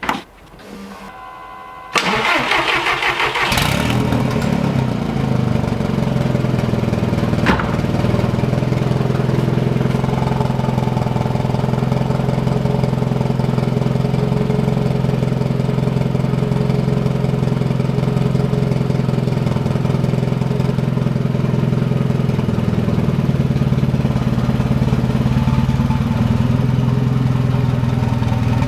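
Turbocharged engine of a Mk1 Volkswagen Golf cranking briefly, catching about two seconds in, and then idling steadily. It runs with an exhaust leak at the turbo, which turns out to come from an open sensor port on the turbo's exhaust side.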